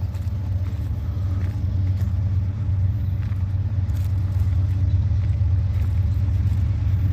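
Diesel freight locomotives working hard under heavy load as they pull a train up a grade: a steady low engine drone that grows a little louder.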